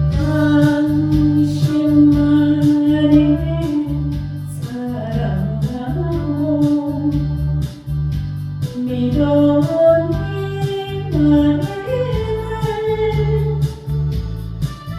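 A voice singing a slow trot song over a backing track with a steady beat, holding long notes that slide between pitches.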